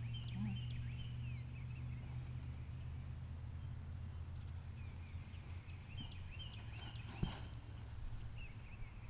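Small birds chirping in short calls over a steady low hum, with one brief knock about seven seconds in.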